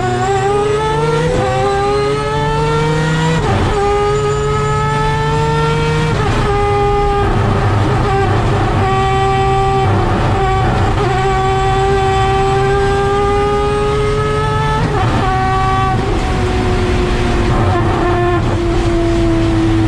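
Three-rotor peripheral-port 20B rotary engine of a racing Mazda RX-7, heard from inside the car, revving hard under full throttle. It climbs in pitch through gears, with gear changes about three and a half seconds in and again near fifteen seconds. In the last few seconds the pitch falls slowly.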